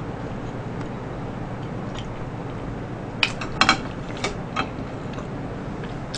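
A woman chewing a mouthful of food with her mouth closed, with a few short wet clicks of chewing about three to four and a half seconds in, over a steady low background hum.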